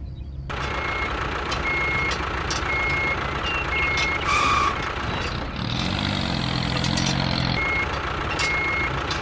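A vehicle's engine running steadily, with a reversing alarm giving short, evenly spaced beeps about once a second that pause midway.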